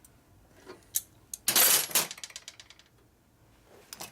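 Metal hand tools or parts clattering: a loud clank followed by a quick run of fading rattling clicks, with lighter clinks before and near the end.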